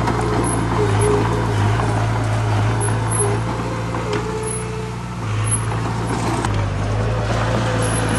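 Heavy diesel earthmoving machinery running steadily, its engine note stepping to a different pitch about five seconds in, with short high squeals coming and going over it.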